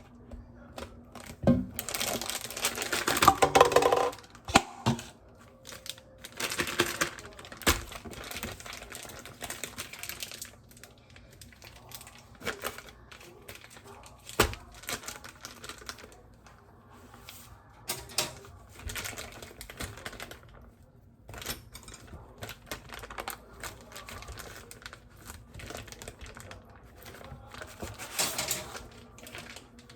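Irregular clicks, taps and rustling of objects being handled, with a louder stretch of clatter about three seconds in.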